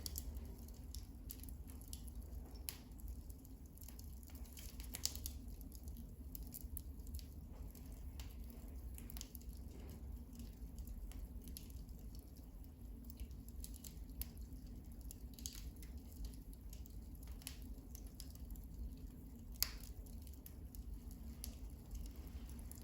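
Wood fire crackling in a fireplace: scattered small pops and snaps over a low steady rumble, with a sharper pop about five seconds in and another near the end.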